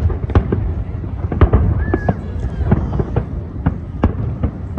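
Aerial fireworks bursting: a rapid, irregular series of sharp bangs, several a second, over a continuous low rumble, with a brief whistle about two seconds in.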